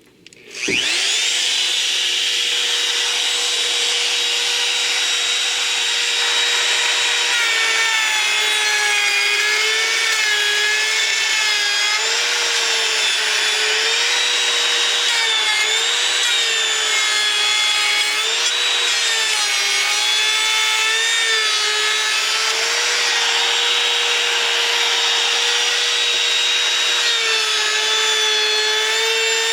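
Small electric router starting up, its whine rising to full speed within a second. It then cuts along the blade, the pitch dipping and wavering repeatedly as the bit bogs under load. The router is really loud.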